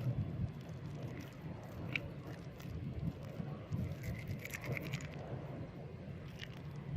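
A blade scraping and cutting into soft soap, with scattered small clicks and a quick run of crackling ticks about four seconds in, over a low rumble.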